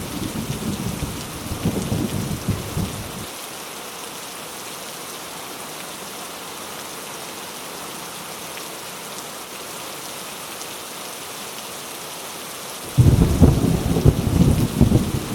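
Heavy rain falling with a steady hiss, under rolling thunder. The low rumble of thunder stops abruptly about three seconds in and leaves only the rain, then a loud thunder rumble breaks in suddenly near the end.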